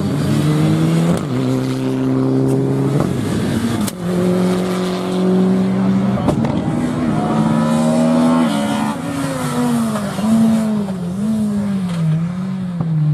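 Rally car engine under hard acceleration, holding its pitch in steps broken by quick gear changes. From about two-thirds of the way in, the engine note falls and wavers up and down as the car lifts off and blips the throttle.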